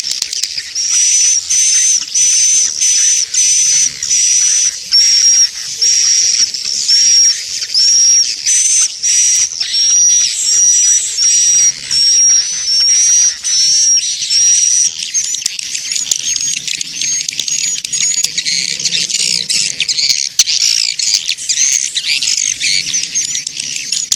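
Swiftlet lure call recording: high, repeated swiftlet chirps, about two a second, turning into a denser twittering chorus about halfway through. This is the sound played at swiftlet houses to draw edible-nest swiftlets in to roost and nest.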